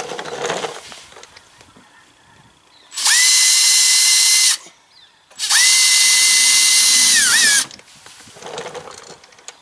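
Power drill running in two bursts, about a second and a half and then about two seconds, with a steady high whine; the second burst winds down in pitch as the trigger is let go. It is drilling out a mounting hole in a mud guard.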